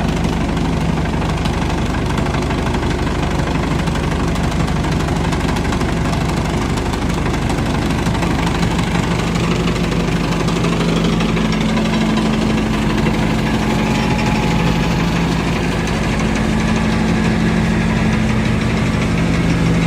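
Dual-wheel sand washing machine running: a steady mechanical drone with a low hum and a fast, even rattle. A second low hum tone joins about eleven seconds in.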